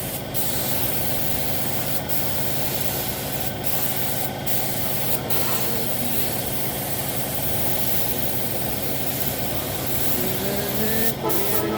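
Paint spray gun hissing steadily as motorcycle body panels are sprayed, cut off briefly several times as the trigger is let go, over a steady machine hum.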